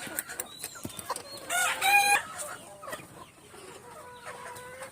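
Chickens clucking, with a loud short call about two seconds in and a long, fainter rooster crow held near the end.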